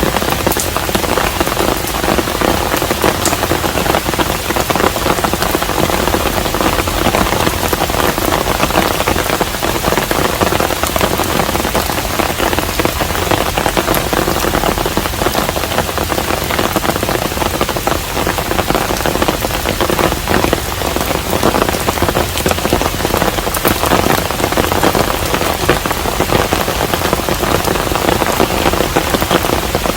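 Steady rain falling on a hanok, a traditional Korean house, a constant even wash of sound dotted with many individual drops striking close by.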